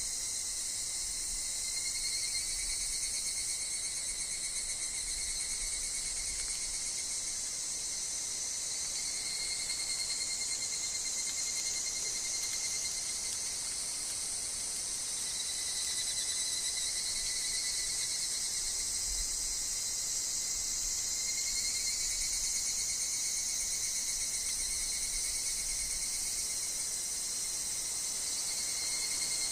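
Higurashi (evening cicadas) and other insects calling together in a dense, steady, high-pitched chorus, with tones that swell and fade every few seconds. A faint low wind rumble comes and goes beneath it.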